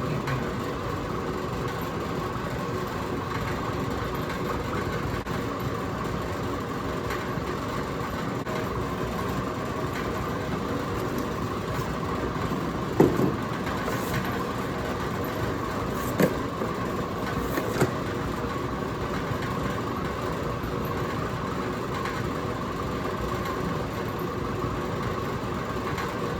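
Steady mechanical hum of a running machine, constant in level, with a few light knocks about halfway through.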